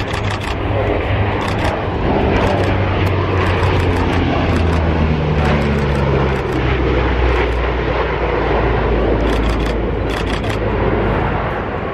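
A fixed-wing aircraft flying past, its engine note falling in pitch as it goes by over a steady low rumble. Rapid camera shutter clicks come in short bursts at the start and again near the end.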